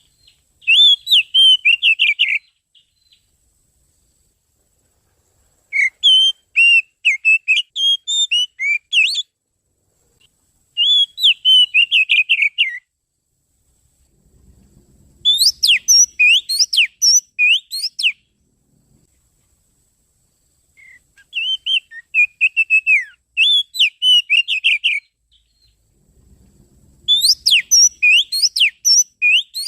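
Oriental magpie-robin (kacer) song used as a bird lure: short phrases of quick, sliding whistled notes, six phrases with pauses of a few seconds between them.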